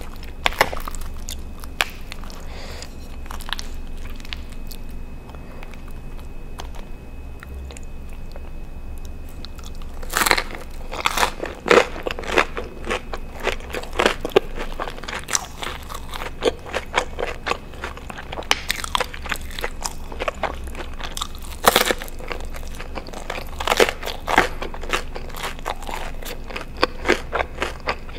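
Close-miked eating sounds: biting and chewing of pepperoni pizza crust and cheesy Alfredo pasta, with wet mouth clicks. It is sparse for about the first ten seconds, then becomes busier with sharper crunches.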